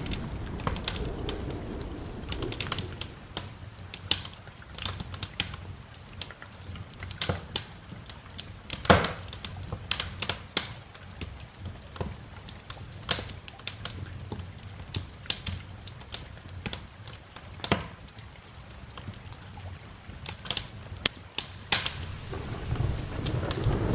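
Wood fire crackling in a fireplace: irregular sharp pops and snaps, a few each second, with one louder pop about nine seconds in. A low rumble fades at the start and builds again near the end.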